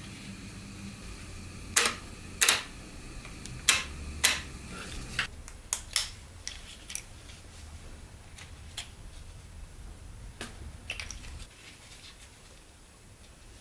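Irregular sharp clicks and knocks of tools and metal parts being handled during a transmission teardown, the loudest hits in the first half. A low hum runs underneath and stops near the end.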